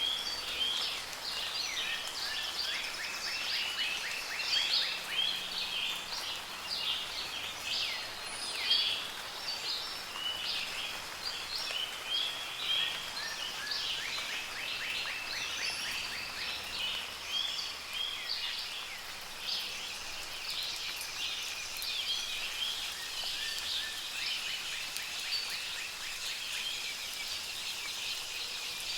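Several songbirds singing and chirping over one another, with a couple of fast trills, over a steady hiss of soft rain.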